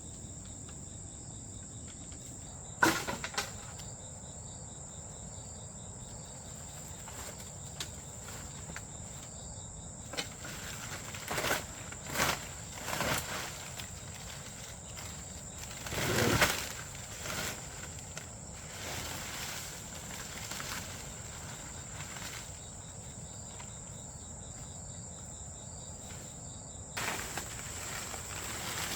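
Insects trilling in a steady high-pitched chorus. Over it come a few brief rustling and knocking noises, the loudest about sixteen seconds in.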